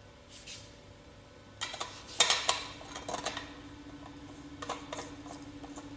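Parts of a manual meat grinder clicking and clattering as they are fitted together by hand: scattered short clicks and knocks in small clusters, the loudest about two seconds in.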